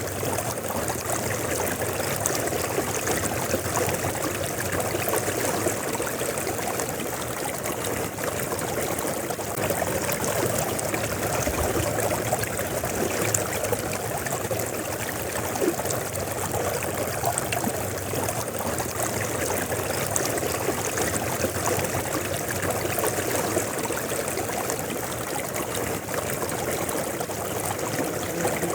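River water flowing and splashing steadily over its bed, an even rushing with fine trickling and gurgling.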